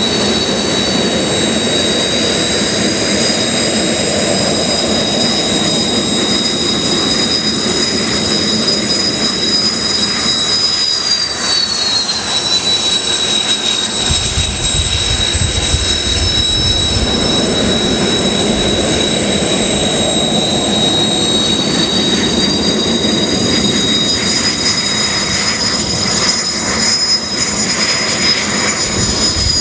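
Kawasaki T-4 jet trainers taxiing, their twin turbofan engines whining high over a steady rumble. The whine slides down in pitch about eleven seconds in and climbs back up about twenty seconds in, and a deeper rumble swells briefly around the middle.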